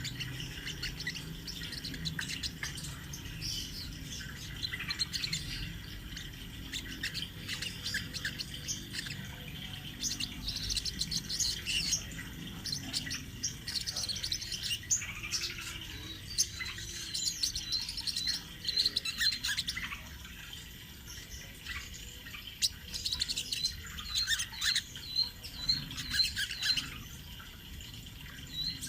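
Spiderhunter (the sogon or sogok ontong bird) singing an unbroken run of sharp, high chirps and trills, with quick repeated notes near the end.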